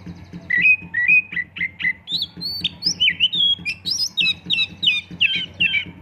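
Oriental magpie-robin (kacer) singing a loud, varied song of sweeping whistled notes and quick repeated phrases, starting about half a second in.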